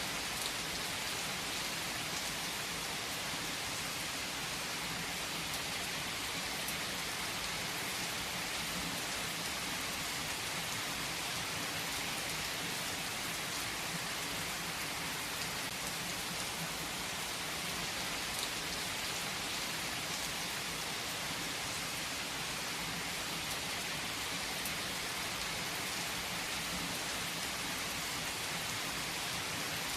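Steady rain falling, an even hiss of rain with a fine patter of drops, unchanging throughout.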